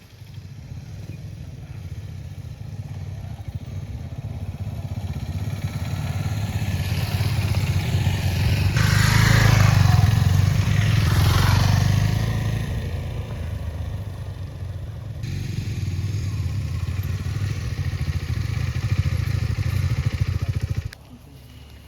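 Motor vehicle engine running steadily with a low pulsing hum. It swells louder through the middle with a rush of noise, eases off, rises again, and cuts off suddenly near the end.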